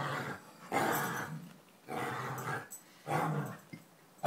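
Dog growling in play: four rough growls, about a second apart.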